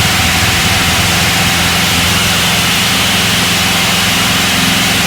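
Citabria 7ECA's piston engine and propeller running steadily in flight, heard from inside the cockpit as a loud, even drone under a steady rushing hiss.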